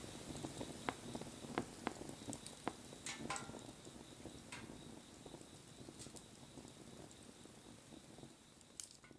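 Wood fire crackling, with sharp pops and snaps scattered over a soft steady hiss, growing fainter toward the end.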